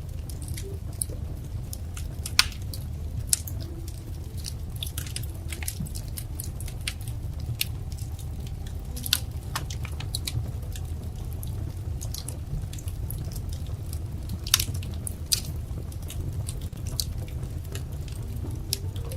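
Wood fire crackling: irregular sharp pops and snaps over a low, steady rumble, with two louder pops, one a couple of seconds in and one about three-quarters of the way through.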